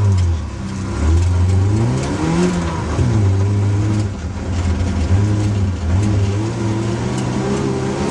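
Hillman Imp's rear-mounted four-cylinder engine heard from inside the car, driven hard with the revs rising and falling. The revs climb from about a second in to a peak near two and a half seconds, fall away sharply, then waver with smaller rises and dips.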